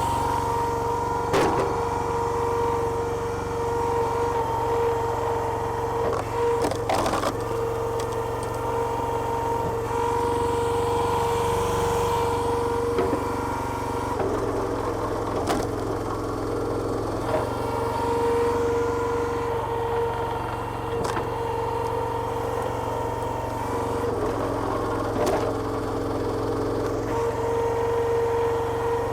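Petrol engine driving a homemade hydraulic log splitter, running steadily with a steady whine. A few sharp knocks or cracks come through it, and the low hum shifts a couple of times.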